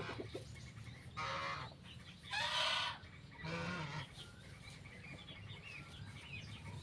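Farm poultry calling: three harsh calls, about a second in, at two and a half seconds (the loudest) and at three and a half seconds, with faint small chirps after.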